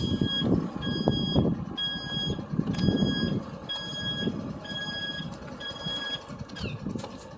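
A vehicle's reversing alarm beeping about once a second, each beep about half a second long, stopping about six seconds in, over a steady low noise.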